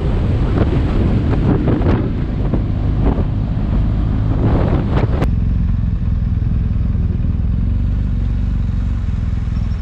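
Motorcycle under way, its engine and road noise a steady low drone, with wind buffeting the microphone in gusts for the first five seconds. The gusts stop abruptly about five seconds in, leaving the engine drone on its own.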